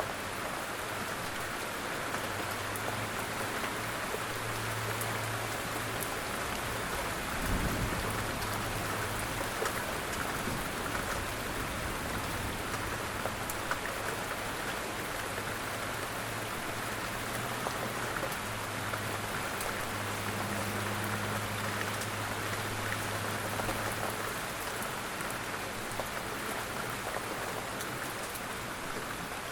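Rain falling steadily on a surface, an even hiss with the fine patter of individual drops. A brief low thump comes about seven seconds in.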